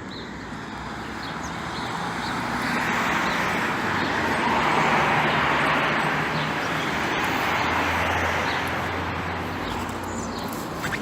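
A vehicle passing on a rain-wet road: a hiss of tyres and a low engine hum swell up, peak in the middle and ease off again.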